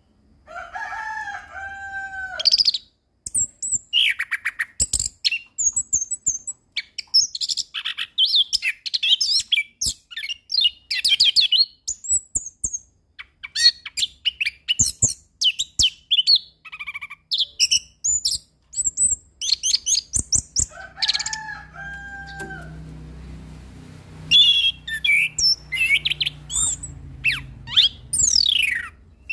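Orange-headed thrush singing a long, varied song: fast runs of high chirps and trills broken by short pauses, with a lower two-note whistled phrase near the start and again about two-thirds of the way through.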